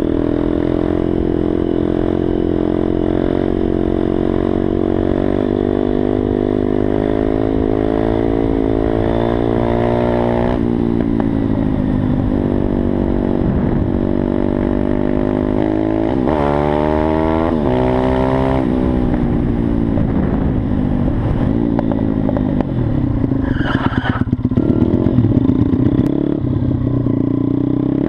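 Pit bike's single-cylinder engine running under throttle, its pitch climbing slowly, dropping sharply about ten seconds in and rising steeply again around sixteen seconds. A burst of rattling clatter comes over the engine about three quarters of the way through.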